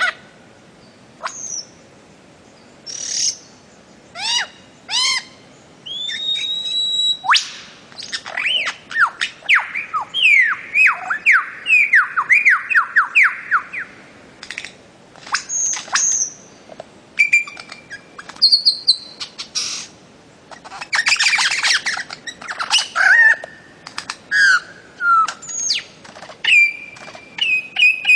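Bird calling in a varied series of whistles and chirps. A rapid run of about a dozen downward-sliding notes lasts several seconds in the middle, and there are short pauses between the phrases.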